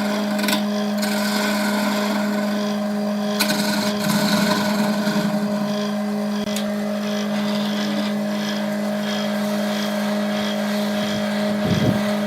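Wood lathe running with a steady motor hum. A stretch of rubbing against the spinning workpiece swells and wavers for about a second and a half near the start.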